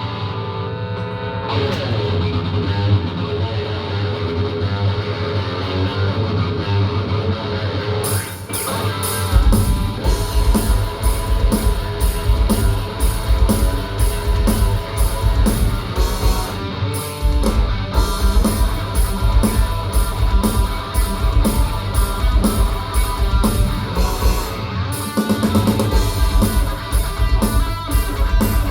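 Live rock band playing, led by a guitar feature. Cymbals come in about eight seconds in and a steady drum beat about a second later, each dropping out briefly twice further on.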